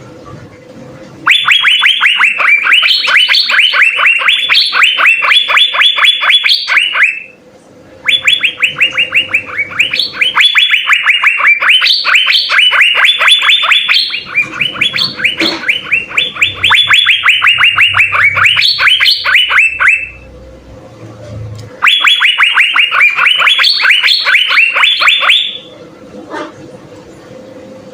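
Asian fairy-bluebird (cucak biru) singing vigorously in four long runs of rapid, repeated whistled notes, with short pauses between the runs. A faint steady hum lies underneath.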